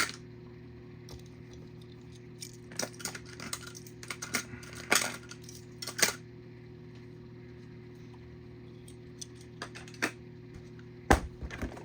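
Small die-cast toy cars being handled: a scattering of light clicks and clinks as they are picked up and set down against each other and a hard surface, over a steady low hum.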